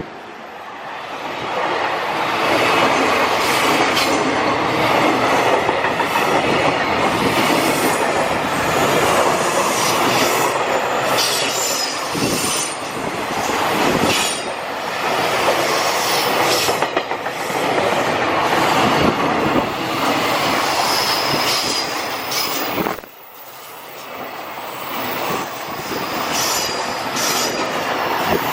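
A long freight train's wagons rolling past at speed, the wheels clattering rhythmically over rail joints with faint high-pitched wheel squeal. The sound drops suddenly about 23 seconds in and builds again.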